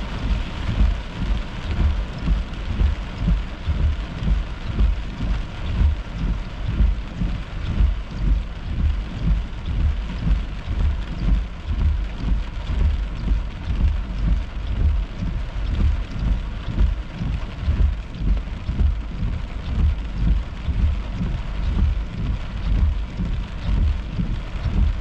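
Heavy thunderstorm rain pounding on a car, heard from inside the cabin, with a dense hiss and a constant, fluttering low rumble.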